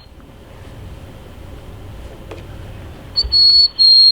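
Bird call played as the magpie's: a group of short, high whistled notes at one steady pitch, each under half a second, coming about three seconds in after a quiet pause.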